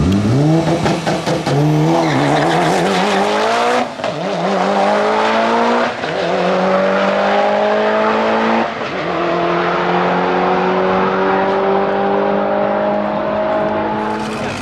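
Drag car launching from the line and accelerating hard down the strip at full throttle. The engine note climbs steeply, then drops and climbs again at each of several upshifts.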